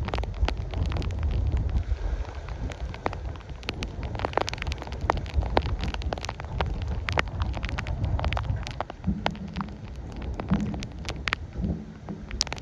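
Strong wind buffeting the microphone with a gusting low rumble, while raindrops strike close by as many sharp, irregular ticks.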